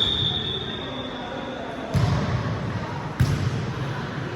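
A ball bouncing on a hard floor: two heavy thuds a little over a second apart, over a steady background of voices.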